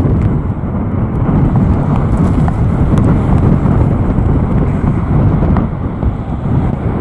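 Storm-force wind buffeting the microphone: a loud, steady low rumble.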